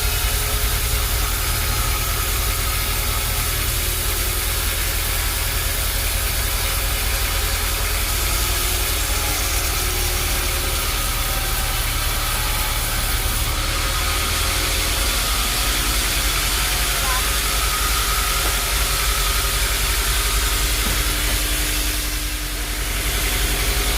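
Sawmill machinery running steadily: a low engine hum under a constant hiss, dipping briefly near the end.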